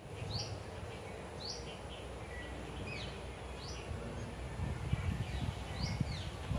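A bird calling repeatedly: short, sweeping chirps about once a second, over a steady low rumble of outdoor background noise.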